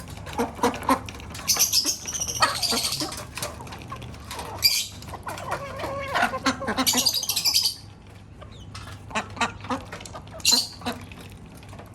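A mixed flock of parrots, ducks and hens calling. Harsh high calls come in bouts through the first eight seconds, then it goes quieter, with one more call near the end.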